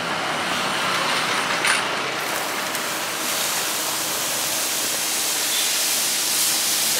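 Food sizzling and frying in a hot pan, a steady hiss that turns brighter and higher about three seconds in, with one short knock near two seconds.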